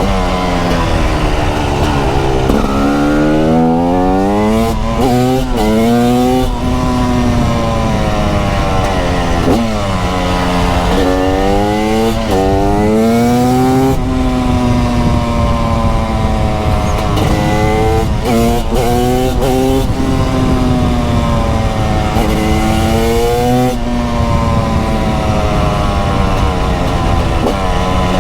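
TM SMR 300 supermoto's 300cc two-stroke engine under way, revving up and dropping back over and over as it is ridden hard. Quick stepwise drops in pitch around 4 to 6 seconds in and again around 17 to 20 seconds are upshifts. Wind rushes on the microphone underneath.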